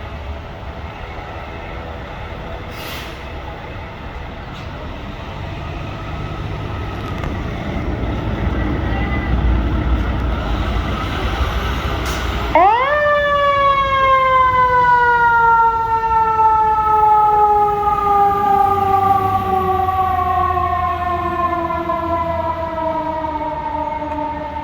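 Fire engine responding: a heavy engine rumble builds, and about halfway through the engine's siren spins up sharply and then winds slowly down in a long falling wail. The fast rise and long coast-down are typical of a mechanical Q-type siren.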